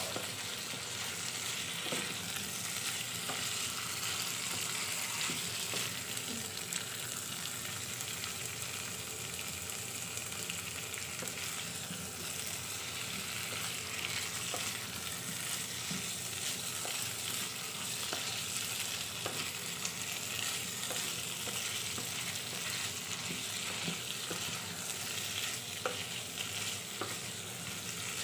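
Diced tempeh in sweet soy sauce seasoning sizzling steadily in a non-stick electric pan while a wooden spatula stirs and turns it, with scattered light scrapes and taps of the spatula against the pan.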